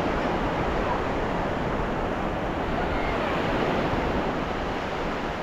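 Ocean surf washing steadily on a beach, with a slight swell about halfway through, and some wind noise on the microphone.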